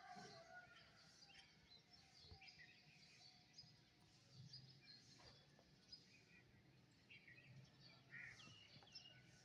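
Faint chorus of small songbirds: many short chirps and brief twittering trills from several birds calling over one another.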